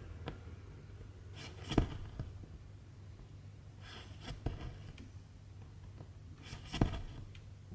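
Needle and silk thread drawn through cross-stitch fabric: three pulls about two and a half seconds apart, each a short rasp ending in a sharp tick.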